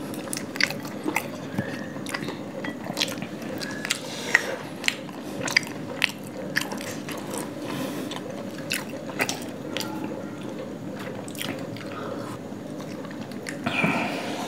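Close-miked chewing and mouth sounds of people eating chicken curry and paratha by hand, with irregular sharp wet smacks and clicks.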